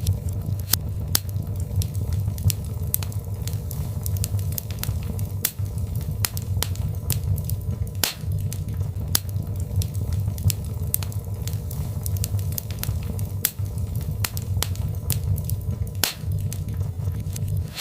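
Birch logs burning in a fireplace: irregular sharp crackles and pops, several a second, over a steady low rumble of the flames.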